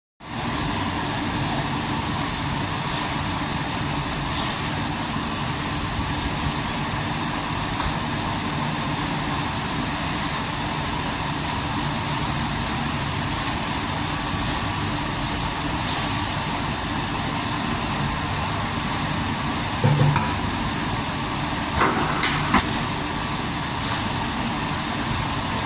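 Automatic film-cutting and heat-shrink wrapping machine running: a steady blower-and-motor noise with scattered sharp clicks, and a few heavier clunks about twenty seconds in.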